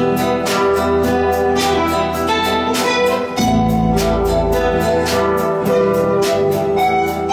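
A guitar ensemble playing an instrumental improvisation, with strokes at a steady beat over held chords and a bass line.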